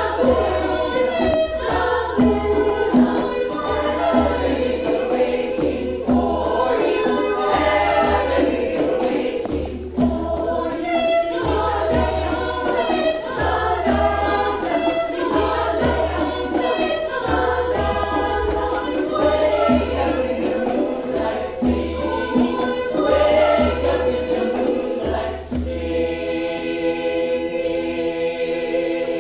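Mixed community choir singing an African song in harmony over a low, regular beat of about one pulse a second. About 26 seconds in the beat stops and the choir holds a final sustained chord, closing the song.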